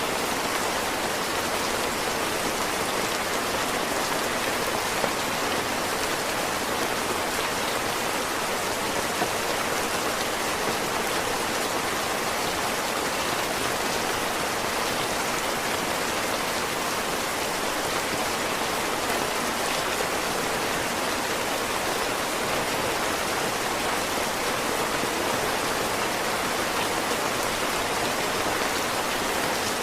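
Heavy rain falling steadily: a dense, even hiss of drops that stays constant throughout.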